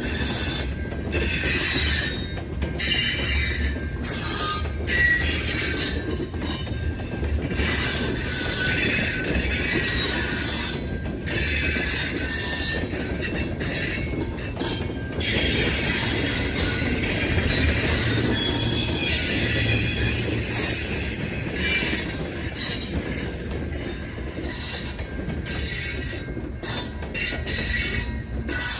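A train rolling past: a steady low rumble of the cars on the rails, with high-pitched wheel squeal coming and going.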